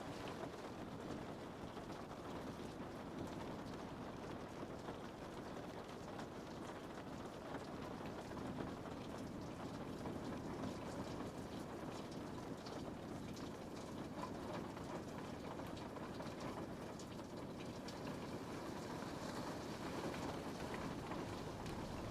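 Steady rain on a window: an even hiss of rainfall with many small drop ticks against the glass.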